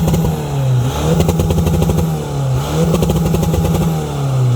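Car engine with an anti-lag system revved hard three times, each time held high for about a second against the limiter with rapid crackling pops before the revs fall away.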